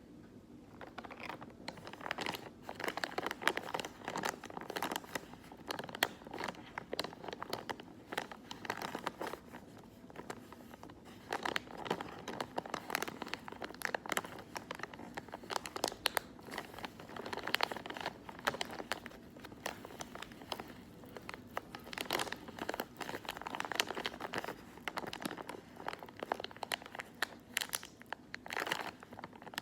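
Hands crinkling and crumpling crinkly material close to the microphone: dense crackling in bursts with short lulls between.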